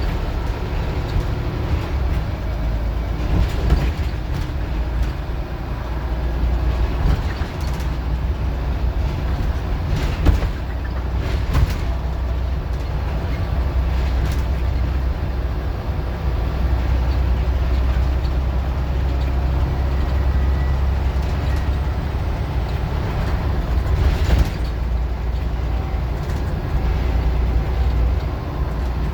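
Scania N94UD OmniDecka double-decker bus's diesel engine running hard under way, a steady low drone, with occasional sharp knocks and rattles from the bodywork.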